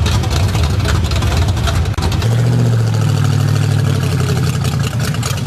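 Chevy Nova's 400 small-block V8 running loud through open headers, revved for a decibel reading. About two seconds in, it settles into a steady held high rev.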